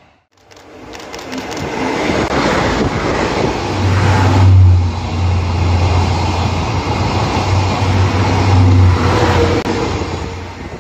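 Salon Car Naniwa group train's coaches passing at close range: a steady rumble of wheels and running gear that builds over the first couple of seconds, with a strong low drone through the middle.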